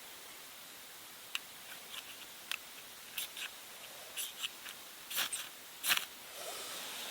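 Repeated short, sharp scraping strikes, about half a dozen over several seconds and loudest near the end, as a fire starter is struck to light a feather stick, followed by a brief soft hiss.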